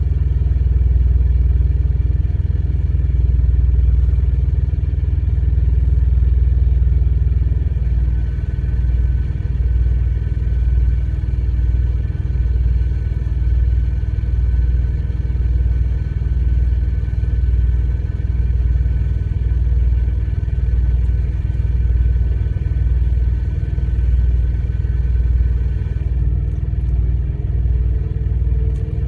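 A vehicle engine idling with a heavy, steady low rumble that beats about twice a second from about eight seconds in. A thin steady whine runs over it from about eight seconds in until a few seconds before the end.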